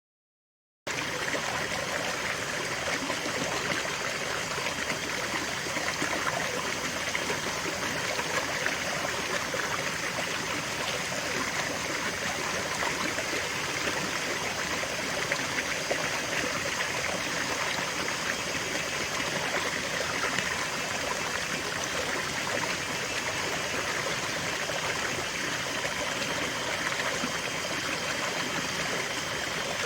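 River water flowing steadily, an even, unbroken noise of running water; it cuts in suddenly a little under a second in, after silence.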